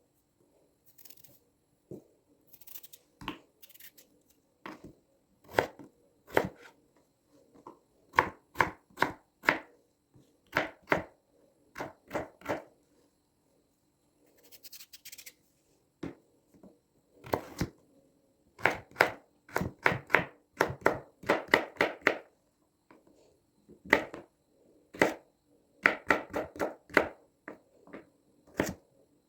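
Knife chopping vegetables, in runs of quick strokes with short pauses between them.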